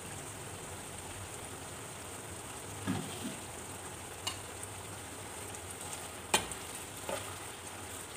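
Pieces of beef liver sizzling and bubbling in ghee in an uncovered frying pan, a steady hiss. A few sharp clinks of utensils against the pan break through it, the loudest about six seconds in.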